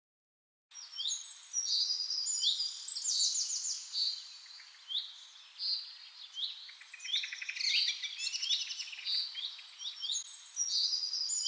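White-rumped shama (murai batu) singing: a fast, unbroken run of varied whistles, upswept chirps and rapid trills that starts abruptly after a second of silence.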